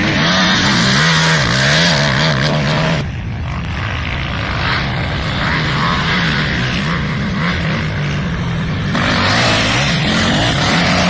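Kawasaki KFX 450R quad's single-cylinder four-stroke engine revving up and down under throttle as it is ridden, its pitch rising and falling. From about three seconds in the sound turns duller for about six seconds, then comes back brighter.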